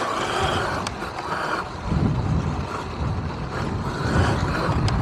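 Riding noise from an electric dirt bike on a rough trail: uneven rumble of wind on the camera microphone and the bike rattling over the ground, heavier from about two seconds in.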